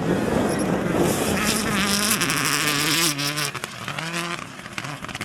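A rally car's engine running hard as it passes, its pitch holding and then stepping down in stages through the middle, with a loud rush of noise over it for a couple of seconds.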